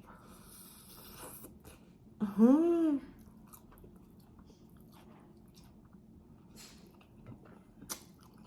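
Close-up chewing and wet mouth sounds of someone eating a birria taco. About two seconds in comes a loud hummed "mmm" of enjoyment, rising then falling in pitch and lasting under a second.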